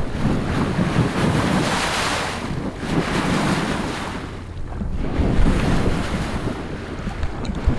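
Sea water rushing and splashing along the hull of an IMOCA 60 racing yacht under way, with wind buffeting the microphone. The rush swells and eases every two to three seconds as the boat moves through the waves.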